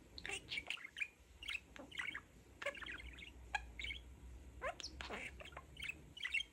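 Pet budgerigar (parakeet) chattering to itself: a quick, uneven string of short chirps, squeaks and warbles.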